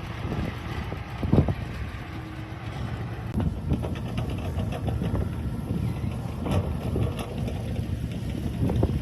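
Heavy engine rumbling steadily, with wind on the microphone, a loud knock about a second and a half in and another later on.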